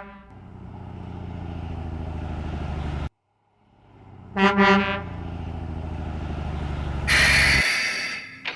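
Garbage truck sound effects: a low, pulsing truck engine that builds up, cuts off, then starts again. About halfway through a horn honks twice, and near the end a short loud hiss comes as the engine stops.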